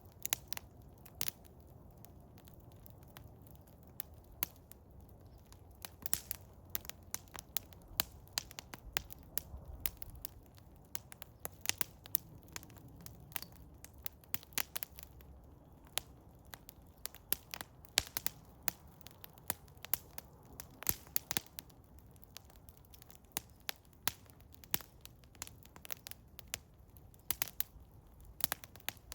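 Wood fire of eastern hemlock burning, crackling with irregular sharp pops over a low steady rush of flame.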